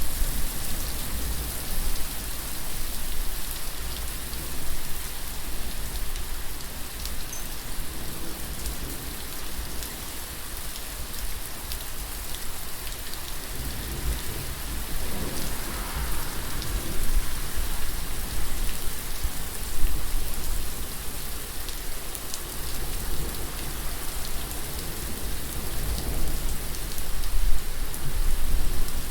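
Steady rain falling on surfaces, a continuous hiss with individual drops ticking through it.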